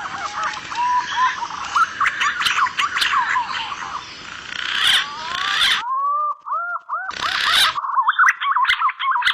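A flock of green pigeons (punai) calling: many overlapping whistled notes that rise and fall, over a hiss. The track is spliced together from several recordings, so the background cuts in and out abruptly partway through. It is a lure call used to draw punai in.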